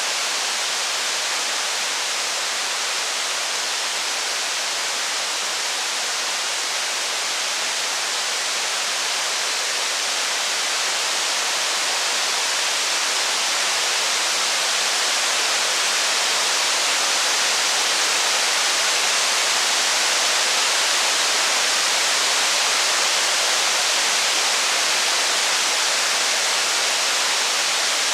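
Steady heavy rain: an even, unbroken hiss with no separate drops or crackles, growing slightly louder about halfway through.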